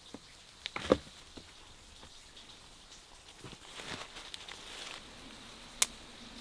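A few sharp knocks and clicks of wood and stone being handled, with a stretch of rustling in the middle and one more sharp click near the end.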